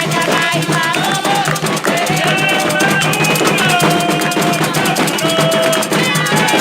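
Candomblé ritual music: drums and percussion keep a fast, steady rhythm under singing voices.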